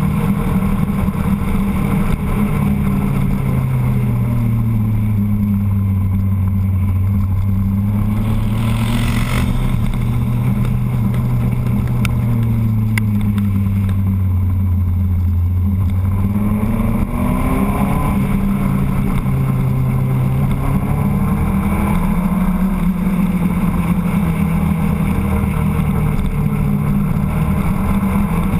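Motorcycle engine running steadily under the rider with wind noise on the microphone. Its note drops a few seconds in, holds low, then climbs again past the middle as the throttle and gears change through the bends. A brief rush of wind comes about nine seconds in.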